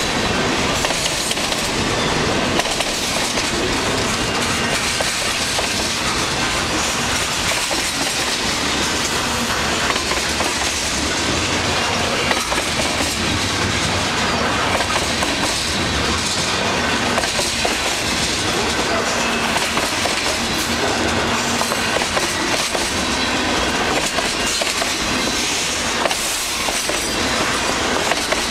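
Freight cars (hoppers and boxcars) of a long mixed freight train rolling past at close range: a steady, loud rumble and rattle of steel wheels on the rails, with repeated clacks as the wheels run over the rail joints.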